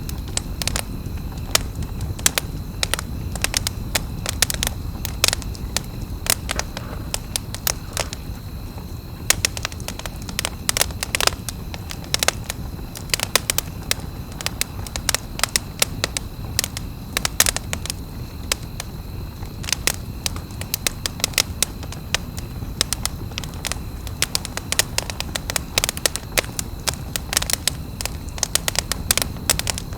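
Wood campfire crackling, with frequent irregular sharp pops and snaps over a steady low rumble of the burning fire.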